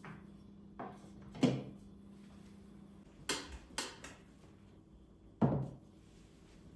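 Household objects being handled: five separate knocks and clacks, the loudest about a second and a half in and again about five and a half seconds in.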